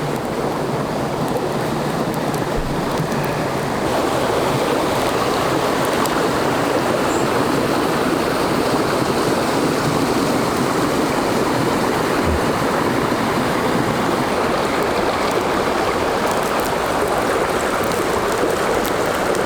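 Rainforest creek flowing: a steady rush of running water, a little louder from about four seconds in.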